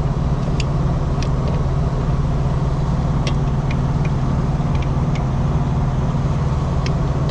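A diesel engine running steadily at idle, with a dozen or so short sharp metal clicks and scrapes from hand tools working on the truck's wheel hub.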